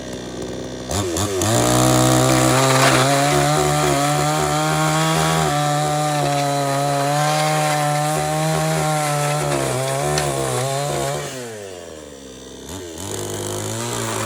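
Chainsaw revving up about a second in and running at high revs, as when cutting wood, then dropping to idle for about a second before revving up again near the end.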